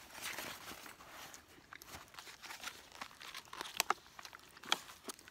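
Crinkling and rustling of food wrapping being handled, with a few sharp clicks about four seconds in.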